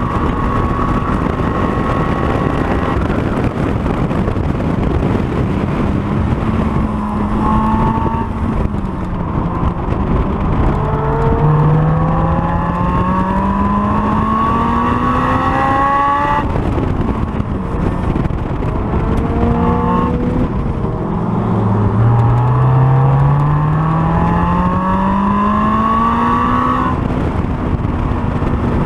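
Honda S2000's four-cylinder engine under hard acceleration on track, pitch climbing steadily twice and dropping off sharply each time at a shift or lift, with short throttle blips in between. Steady wind and road noise run underneath.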